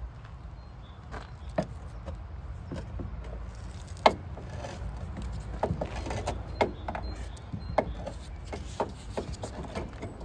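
Irregular knocks and clicks, with one sharper knock about four seconds in, over a low steady rumble.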